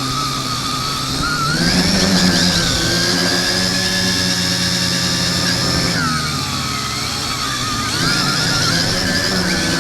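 X101 quadcopter's motors and propellers whining, heard from a camera taped to the drone. The pitch rises about a second and a half in, holds, drops around six seconds in, and rises again near eight seconds as the throttle changes.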